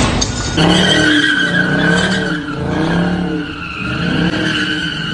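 Car engine revving up and down over and over, about once a second, under a continuous tire squeal, the sound of a car sliding under wheelspin. The sound cuts in abruptly just after the start.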